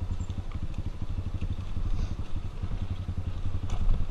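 Single-cylinder four-stroke trail motorcycle engine running steadily at low revs, with a few light clatters.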